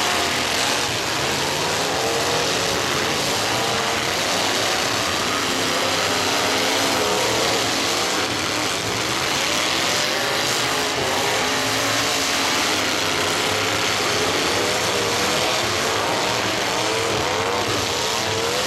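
Engines of several demolition derby cars revving and running hard at once, their pitches rising and falling as the cars shove and ram each other, loud and continuous.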